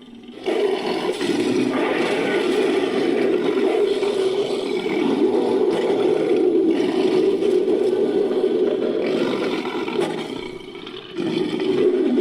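Designed creature roar, layered from animal and movie-monster roars: one long, loud roar that fades out about ten seconds in, then a second roar starting near the end.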